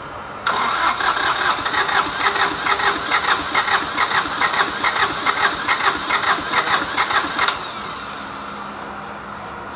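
Kubota D905 three-cylinder diesel being cranked over by its starter for about seven seconds, with a rhythmic pulsing of about three beats a second from the compression strokes, then the cranking stops. This is a hard-starting engine.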